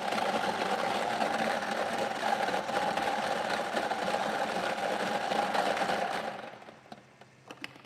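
Electric lottery draw machine running after its button is pressed, churning numbered ping-pong balls in a steady mechanical whir with rattling, which stops about six and a half seconds in; a few faint clicks follow near the end.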